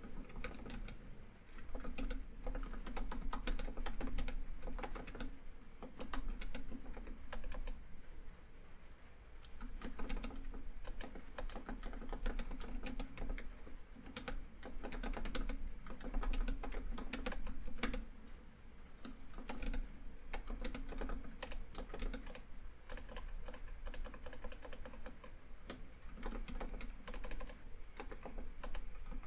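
Typing on a laptop keyboard: quick, irregular runs of key clicks with brief pauses about nine and eighteen seconds in, over a steady bed of rain falling on a tin roof.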